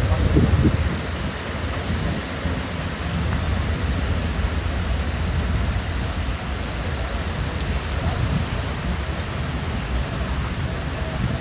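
Steady rain falling, an even hiss, over a low rumble that is loudest in the first second and then eases off.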